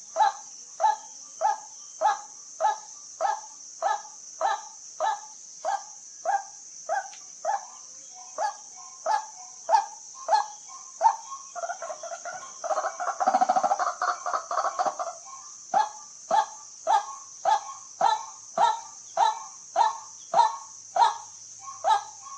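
White-breasted waterhen calling: a monotonous run of short, evenly repeated croaking notes, a bit under two a second. Midway the notes break into a louder, rapid chattering flurry before the steady repetition resumes, all over a steady high hiss.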